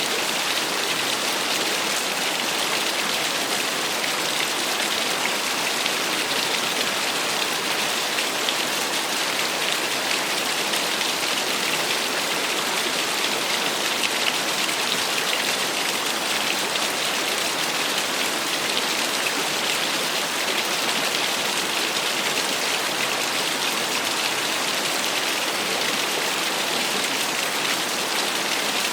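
Small waterfall: water falling and splashing steadily, a constant hiss strongest in the upper range with no change in level.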